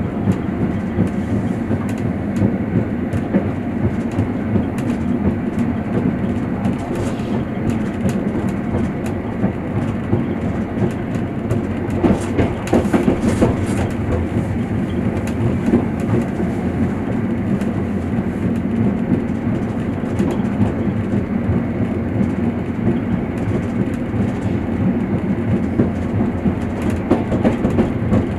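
Train wheels rolling on the rails with a steady rumble, heard from inside a moving railway carriage, and a continuous clickety-clack of wheels over rail joints. The clatter grows louder and busier for a couple of seconds about halfway through.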